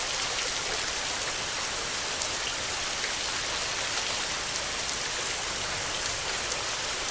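Steady rain falling: an even hiss with scattered single drops ticking.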